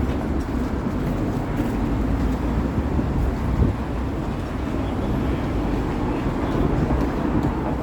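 Steady low rumble of city street traffic, with one brief knock about three and a half seconds in.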